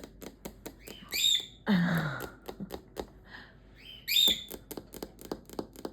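A pet parrot giving two short, high whistled calls, about a second in and again about four seconds in, with a louder harsh call in between. A steady fast ticking, about five clicks a second, runs underneath.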